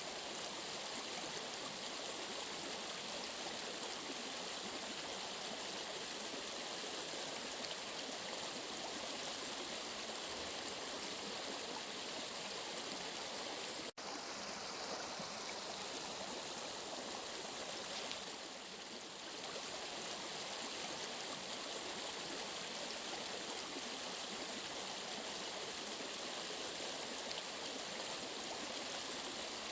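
Steady rushing of flowing water, broken for an instant about fourteen seconds in.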